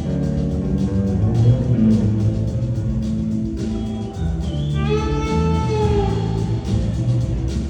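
Live rock band playing an instrumental: electric guitar over bass and drums. About two-thirds of the way in, a long sustained lead note comes in, bending slightly in pitch.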